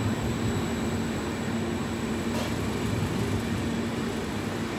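A train running steadily: a low hum with a thin, steady high whine, and one short tick about halfway through.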